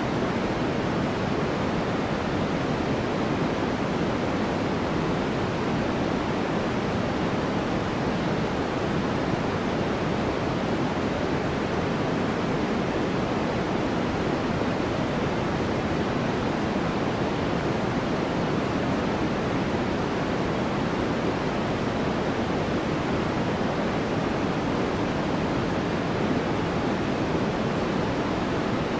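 Steady white noise for sleep: a constant, unchanging hiss with more weight in the low-middle range than in the highs.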